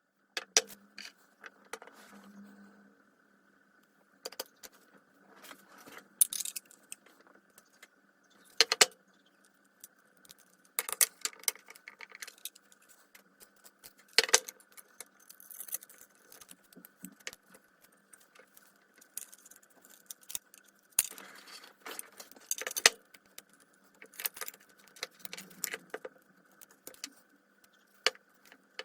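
Small metal parts and hand tools clinking, clicking and rattling as they are handled during disassembly work on a circular saw, in irregular sharp knocks.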